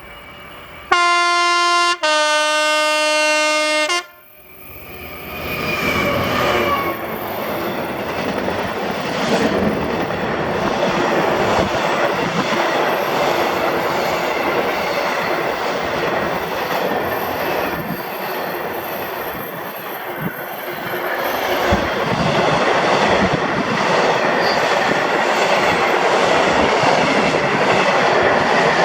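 Class 66 diesel locomotive sounding its two-tone horn, a short higher note then a longer lower one, followed by the locomotive and its freight wagons running past for the rest of the time.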